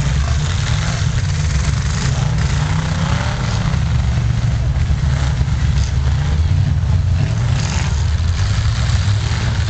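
Several full-size pickup truck engines running and revving together in a demolition derby, a loud low rumble throughout.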